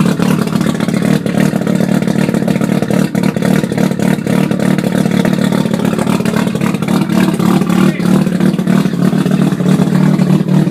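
1987 Mazda RX-7 Turbo II's turbocharged twin-rotor rotary engine running steadily through an open 4-inch straight-pipe exhaust with no mufflers, loud and low, with a few brief sharp crackles.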